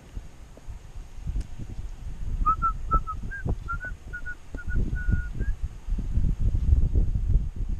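A run of short whistled notes at a similar pitch, mostly in quick pairs, starting about two and a half seconds in and lasting about three seconds. Throughout there is a low rumble of wind on the microphone, which grows louder in the second half.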